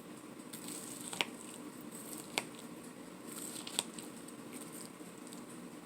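Faint rustling handling noise with three short, sharp clicks spread over a few seconds.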